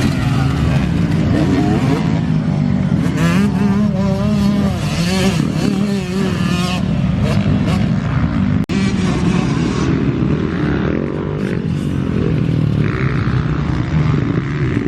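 Motocross bike engines revving up and down as they are ridden, with a sudden brief break about two-thirds of the way through.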